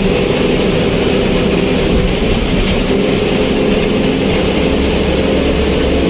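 Steady engine hum and road noise of a moving vehicle, with no change in pace.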